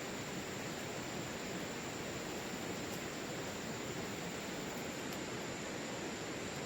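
Steady outdoor background noise: an even hiss with a faint, thin high tone running through it.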